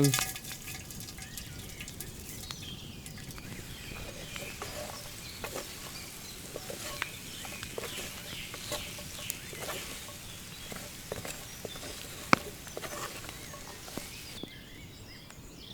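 Vegetables sizzling and spitting in an oiled cast-iron Dutch oven, a steady hiss scattered with small crackles and one sharp crack about twelve seconds in. Birds call faintly behind it. The hiss drops away near the end.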